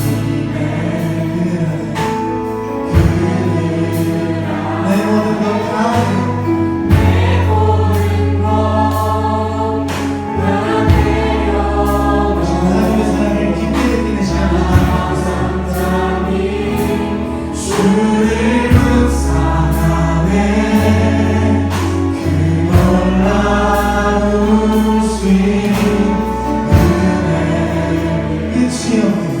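Youth praise team singing a contemporary Christian worship song together with a band, drums keeping a steady beat.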